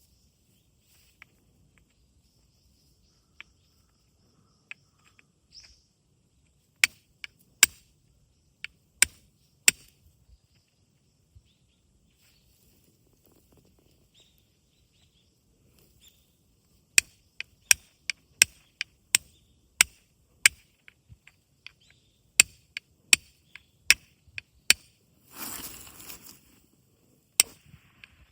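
A flint being struck against a fire steel: a series of sharp, crisp strikes in irregular runs, about two a second at the busiest, with a short rush of noise a little before the end.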